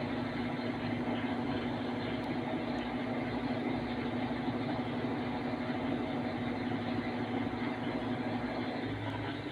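A repaired 9 kg Interlav/Across washing machine of the Whirlpool type running, its motor and drive giving a steady hum over a mechanical whir.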